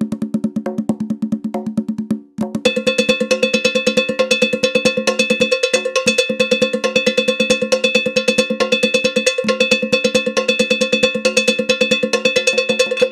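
Ceremonial candomblé percussion: a metal bell struck in fast, even strokes, with drums. The playing breaks off briefly about two seconds in, then resumes with a brighter, ringing bell tone over the strikes.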